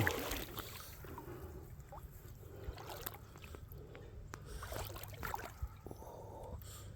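Creek water trickling faintly, with a few light scattered knocks. A brief noisy rush at the very start fades within about a second.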